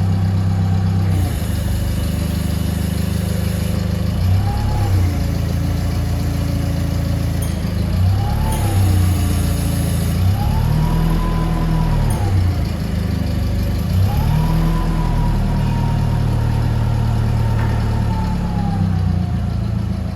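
Hyster LPG forklift truck's engine running, revving up and back down several times. Two short blips come first, then a two-second rev, then a longer hold of raised revs that slowly drops away near the end.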